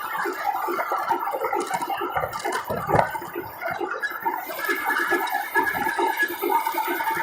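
Water bubbling and gurgling in a steady, irregular stream of small blips.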